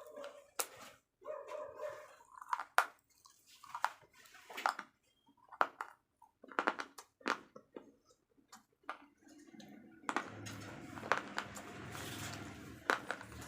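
Slate pencils being bitten and chewed close to the microphone: sharp, irregular crunches and snaps with short gaps between them. About ten seconds in, a steady background noise rises beneath the crunching.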